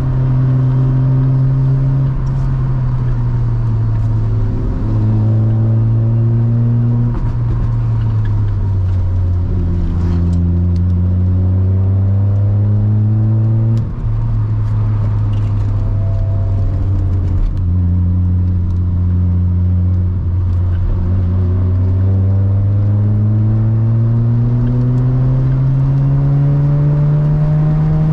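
Sports car engine heard on board during a spirited uphill mountain-road drive. Its pitch drops in several steps over the first ten seconds, holds low with a brief dip in level midway, then climbs steadily over the last several seconds as the car accelerates.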